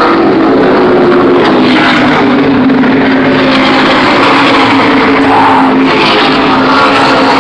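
NASCAR stock cars' V8 engines running at race speed as the field goes by: a loud, steady drone whose pitch sinks slowly, overloading the phone microphone.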